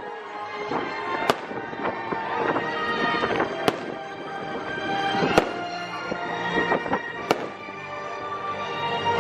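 Fireworks bursting in a string of sharp cracks and pops, the loudest about every two seconds, over show music played over loudspeakers.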